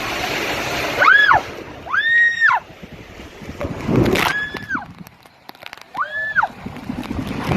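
A person screaming four times, each scream high and held, rising and then falling away in pitch, after a second of rushing water noise.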